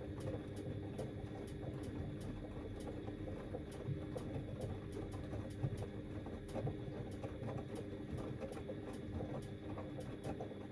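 Front-loading washing machine running: a steady motor hum under the churning and sloshing of the drum turning wet laundry, with a faint regular tick about twice a second.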